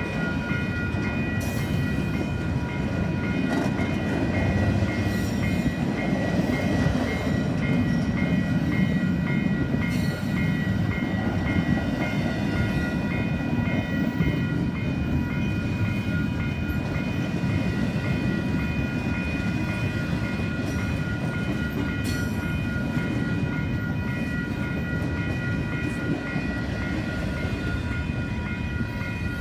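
Long intermodal freight train's well cars rolling past at speed, a steady rumble of wheels on rail, with faint steady high ringing tones over it.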